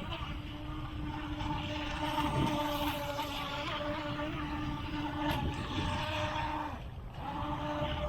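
Electric motor of a WLtoys WL912-A RC speed boat whining steadily as the boat runs on the water. It cuts out briefly near the end, then starts again.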